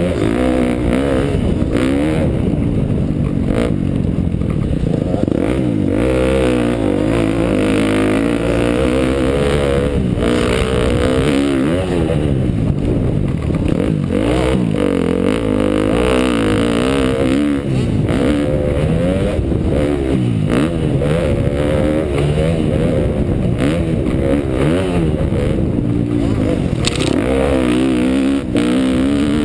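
2012 KTM motocross bike's engine being ridden hard, its pitch rising and falling again and again as the throttle opens and closes through the laps.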